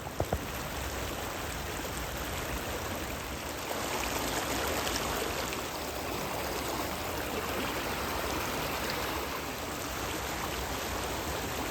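Creek water rushing steadily over a low spillway and rocky riffles, a constant even wash. Two brief knocks sound right at the start.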